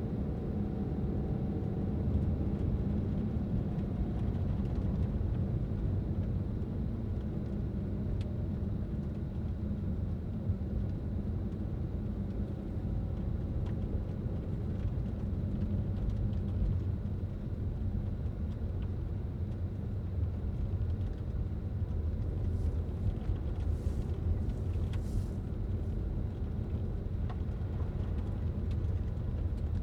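A car driving on a road: a steady low rumble of engine and tyres, with a few brief soft hisses about three-quarters of the way through.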